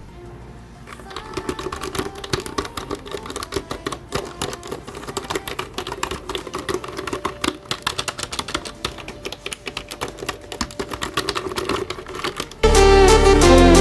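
Rapid typing on a freshly cleaned and reassembled computer keyboard: a dense, uneven run of key clicks. Music comes in near the end.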